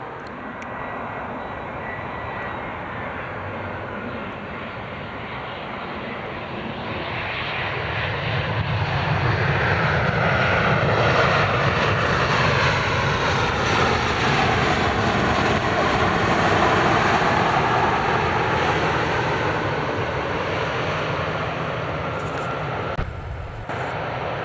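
Jet airliner passing close by: the engine noise builds, swells to a loud peak with a sweeping, phasing whoosh, then slowly fades away.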